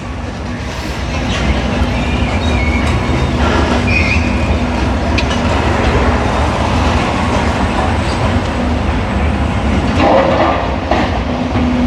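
Heavy demolition machinery running: a steady diesel engine drone with the continuous rattle and grind of a mobile crusher breaking up rubble and hardcore, with a brief metallic squeal about four seconds in.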